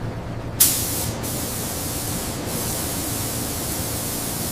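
Paint spray gun hissing steadily over a low machine hum, starting suddenly about half a second in, with a couple of brief breaks.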